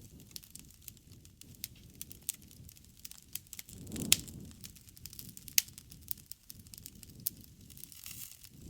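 Wood campfire crackling, with irregular sharp pops and snaps over the low sound of the burning. One louder pop comes about four seconds in.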